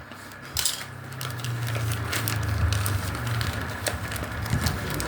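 Crinkling and irregular clicking of product packaging being handled and opened, over a steady low hum.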